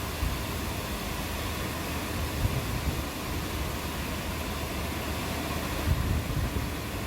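Steady rain, an even hiss, with irregular low rumbling underneath that swells a few times, most strongly near the end.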